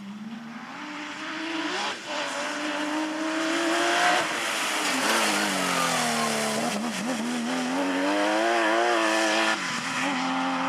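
Porsche rally car's flat-six engine approaching and getting louder, revving up with a quick gear change about two seconds in. About four seconds in the revs fall sharply, then waver up and down, and after another quick break near the end the engine holds a steady pitch.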